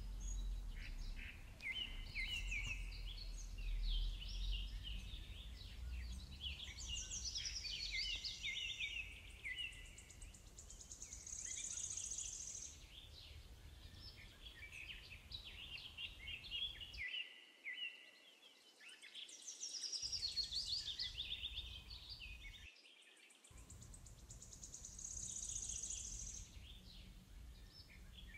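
Several small birds singing and chirping in quick, varied phrases, over a low steady rumble that cuts out briefly twice past the middle.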